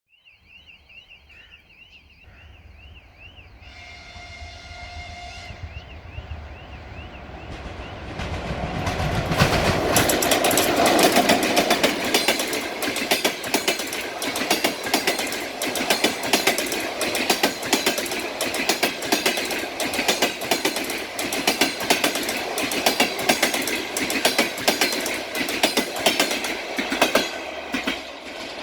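A ChS4 electric locomotive and its passenger train approaching and passing: a short horn blast about four seconds in, then a growing rumble and, from about nine seconds, a steady clickety-clack of wheels over rail joints as the carriages roll by.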